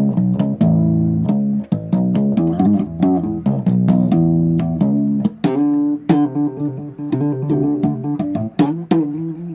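Bass guitar playing a riff of quick plucked notes, each with a sharp percussive attack.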